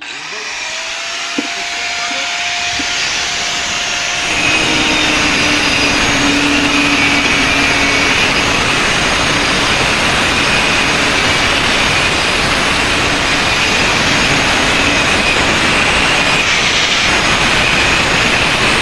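A loud machine running steadily, its noise growing over the first four seconds and then holding level, with a faint steady whine in it.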